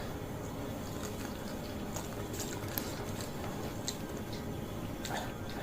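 A person chewing fried noodles up close: wet, squishy mouth sounds with scattered small clicks over a steady low background noise.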